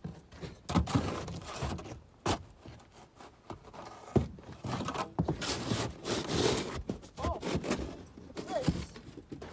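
Objects being shifted about in a pickup truck bed: a series of knocks and thuds, with stretches of scraping and rustling between them.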